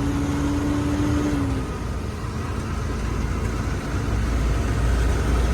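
Truck engine and road noise heard from inside the cab while driving: a steady low rumble, with a droning tone that dips slightly and fades out about a second and a half in.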